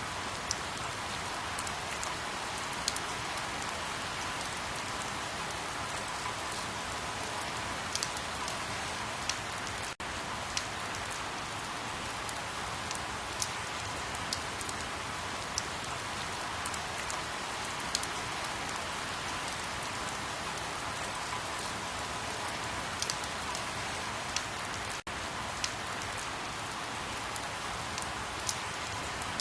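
Steady rain: an even hiss sprinkled with sharper drop ticks, cutting out for an instant twice, about ten seconds in and again later on.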